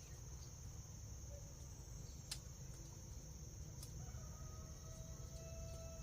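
Night insects, crickets, chirring in a steady high-pitched drone over a low rumble, with a few sharp clicks, the loudest about two seconds in.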